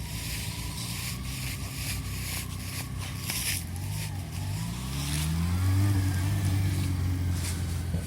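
Motorcycle engine running at low speed. About four seconds in its pitch rises as it accelerates, and it is loudest near the end.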